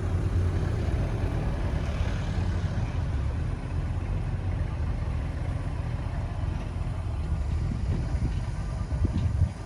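A car engine running with a deep, steady low rumble that drops away sharply near the end.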